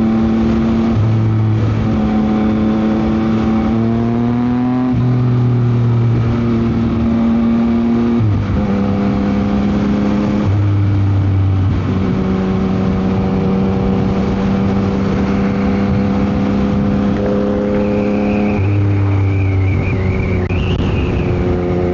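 Yamaha MT-09 SP's inline three-cylinder engine running through a Dominator GP aftermarket exhaust while riding, holding steady engine speeds that step up and down several times, with one rising rev about four seconds in. Wind noise runs underneath.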